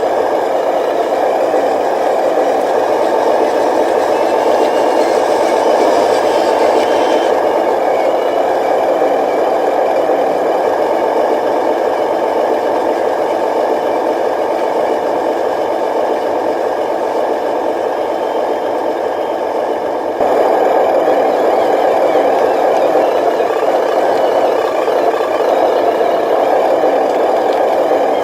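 Radio-controlled model truck running steadily with an engine-like idle and a rattle, as from its sound module and drive gearing. The sound steps up louder about twenty seconds in.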